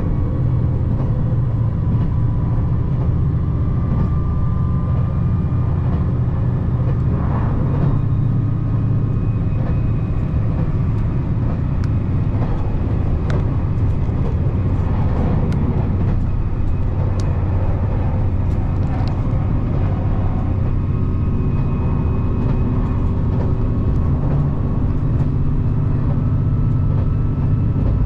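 Steady low rumble of a JR Shikoku 2700 series diesel train running, heard from inside the passenger cabin, with a few light clicks in the middle.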